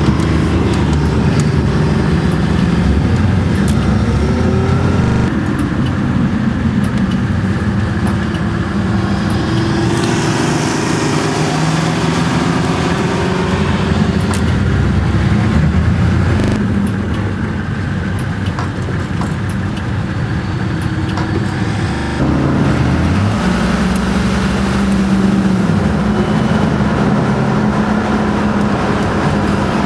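Detroit Diesel 12V-71 two-stroke V12 diesel of an FTF heavy truck running under way, its engine speed rising and falling. There is an abrupt change in the sound about two-thirds of the way through.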